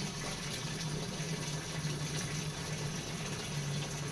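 Water running from a garden hose onto plants: a steady watery hiss with a low hum underneath.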